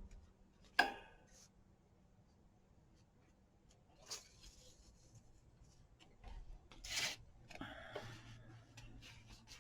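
Faint handling of paper and craft pieces on a desk: a short sharp click about a second in, then soft rustling and scraping, with one louder brushing swish about seven seconds in.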